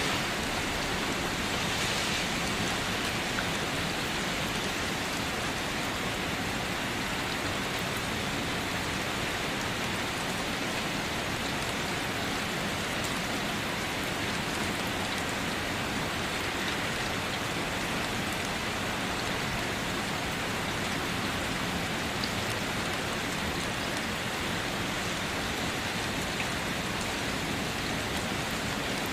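Steady rain falling on a car, an even dense patter with a few separate drop taps now and then.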